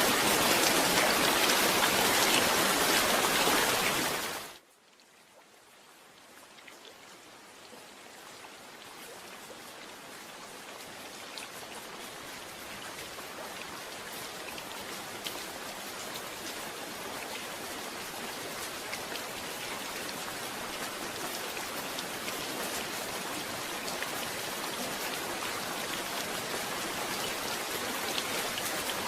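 Steady, heavy rain that fades out quickly about four seconds in. It then slowly fades back up, with individual drops audible, growing louder to the end.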